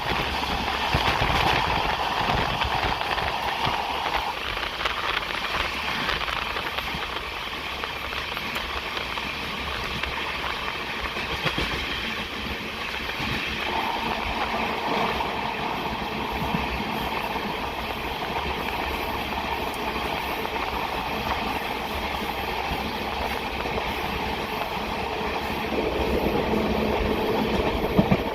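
Express passenger train rolling along the track: a steady rumble of wheels on rail with occasional clicks over rail joints.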